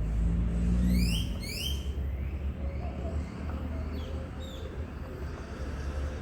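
A bird gives two quick rising calls about a second in, and fainter calls a few seconds later, over a steady low rumble.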